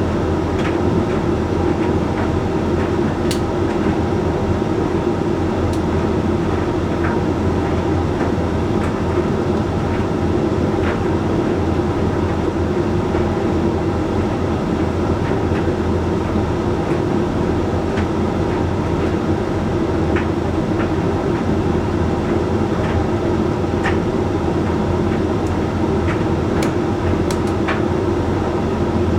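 Hoover Link X Care HLX C10DRGR condenser tumble dryer running mid-cycle: a steady hum and rumble from the turning drum, motor and fan, with occasional light clicks.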